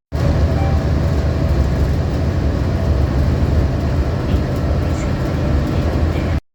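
Steady low rumble of a public transit vehicle in motion, heard from inside the cabin. It cuts off abruptly near the end.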